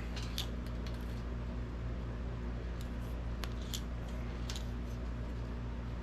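Light, sharp clicks and scrapes of a paint marker and ruler being worked against a steel tank while a door outline is marked out, scattered about eight times over a steady low hum.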